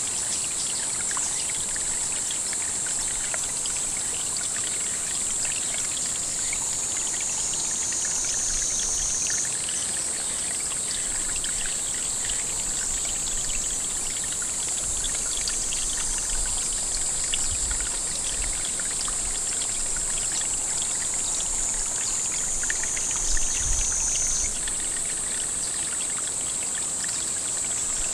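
Water trickling and splashing into a pond, under a steady high-pitched insect chorus that twice slowly sags in pitch and then snaps back up. A couple of soft bumps come about three-quarters of the way through.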